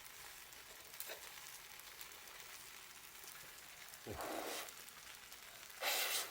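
Bonfire crackling and hissing steadily with faint scattered pops, then two louder hissing rushes, one about four seconds in and a stronger one near the end.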